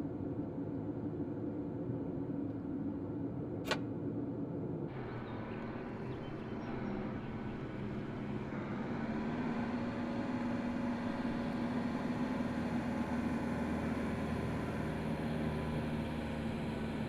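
Helicopter engine and rotor noise, a steady drone with one short sharp click about four seconds in; the drone's character shifts about five seconds in.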